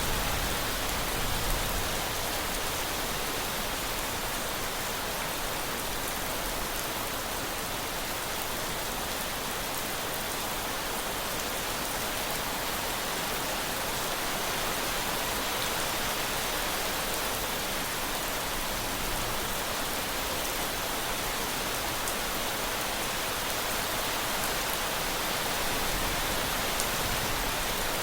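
Heavy rain falling steadily, an even hiss of drops on surfaces. A low rumble swells slightly near the start and again near the end.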